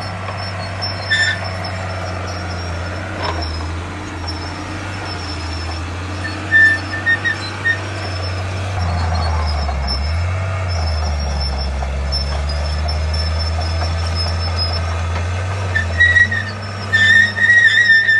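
Diesel engine of heavy earthmoving machinery running steadily, its pitch dipping briefly about halfway through as it takes load. Short high-pitched squeals come in twice, about six seconds in and near the end.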